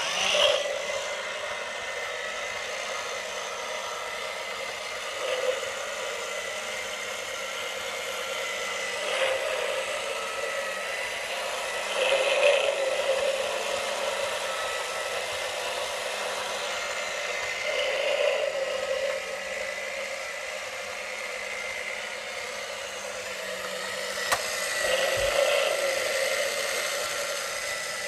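Haynes V8 model engine kit switched on, its small electric motor driving the plastic crankshaft and pistons with a steady mechanical whir and a thin whine, swelling louder every few seconds.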